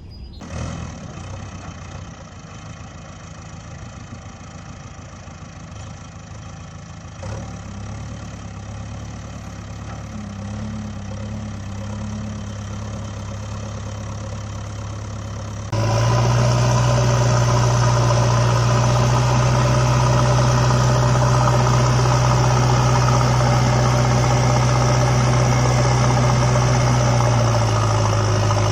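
Engine idling steadily. About halfway through it cuts abruptly to a louder, deeper engine idle with a strong low hum.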